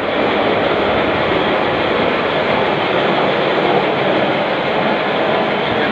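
Loud, steady machinery noise of a container ship's engine room with the main engine running under way at sea: an even, dense din with no distinct beats.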